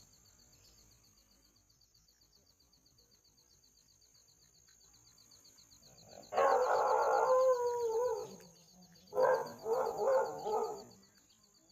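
Two loud animal calls: the first lasts about two seconds with a slightly falling pitch, and the second, starting about three seconds later, is shorter and choppier. A faint, steady, high pulsing trill runs underneath.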